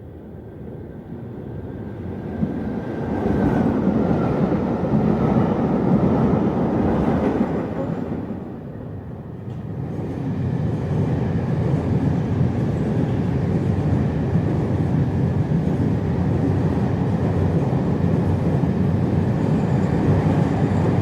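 Train running: a steady rumble that swells in over the first few seconds, dips briefly about midway, then holds steady.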